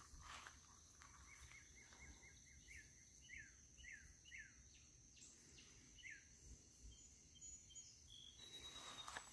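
Faint birdsong over near silence: a quick run of short repeated notes, then several separate whistles that slide down in pitch.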